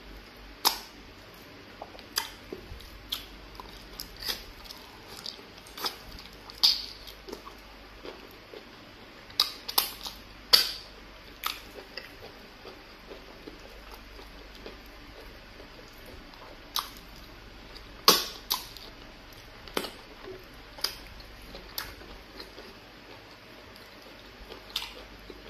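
Mouth sounds of eating yellow fufu and egusi soup by hand: wet chewing and lip smacks, heard as irregular sharp clicks, now single and now several in quick succession.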